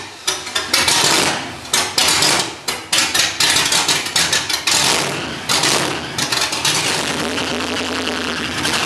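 The 1971 Camaro Z28's V8 engine, very loud, blipped hard on the throttle: a quick, irregular run of sharp exhaust cracks over the first six seconds or so. It then settles into a steady idle.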